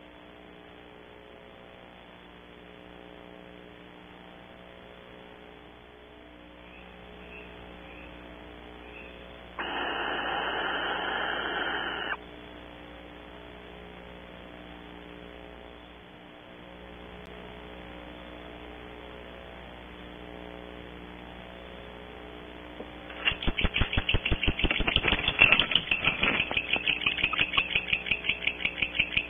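Barn owls twittering out of view: a fast run of short chittering pulses starting about 23 seconds in. Earlier there is a hiss of about two and a half seconds, with a steady electrical hum from the camera's audio underneath.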